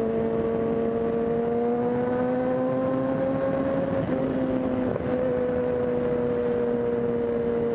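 Kawasaki ZX-10 inline-four sport bike engine running at a steady cruise under rushing wind noise, its pitch rising gently for a few seconds and then easing back slightly.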